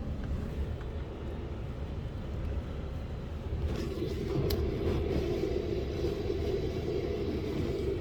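Car driving slowly: a steady low rumble of engine and tyres that grows louder about halfway through.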